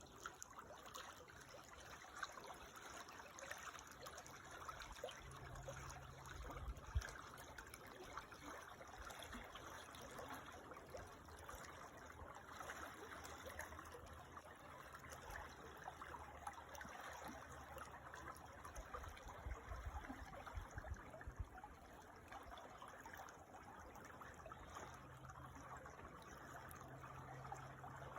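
A creek trickling steadily, faint. A low hum comes and goes a few times underneath.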